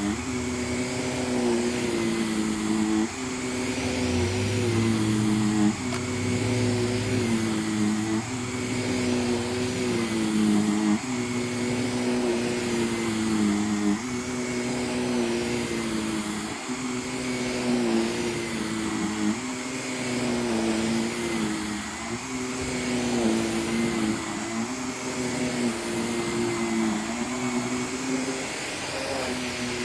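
Vacuum cleaner running steadily while being worked back and forth over a rug. The motor's pitch dips briefly about every two and a half to three seconds as the head is pushed and pulled through the pile.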